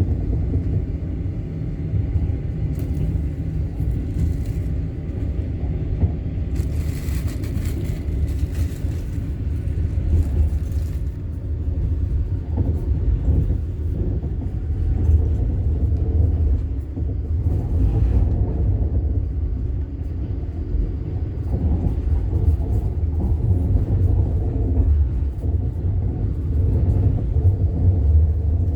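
Steady low rumble of a moving passenger train heard from inside the carriage, with a spell of hissing noise about seven to eleven seconds in.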